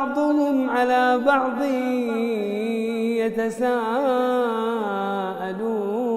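A man's voice chanting Quran recitation in melodic tajweed style. It holds one long unbroken line with ornamented pitch turns.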